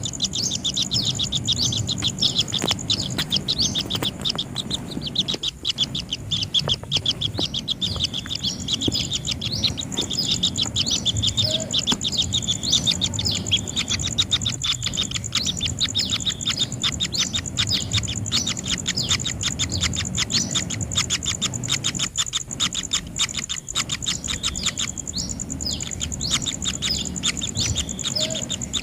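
Kingfisher nestlings chirping rapidly and without pause in the nest burrow, the begging calls of chicks, over a steady high-pitched tone.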